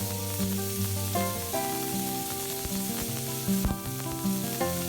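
Sliced onions sizzling in hot oil with whole spices in a kadai, stirred with a spatula, with a couple of short scrapes or knocks about three to four seconds in.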